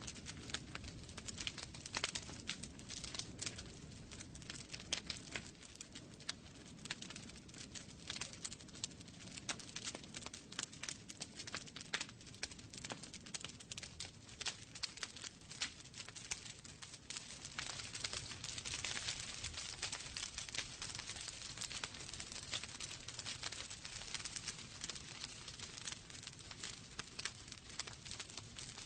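Wood fire crackling in a fireplace: frequent sharp pops and snaps over a soft hiss, the hiss swelling for a few seconds a little past the middle.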